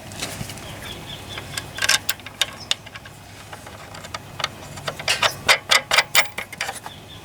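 Irregular sharp clicks and taps of small tools and parts being handled, with a quick run of louder clicks about five seconds in.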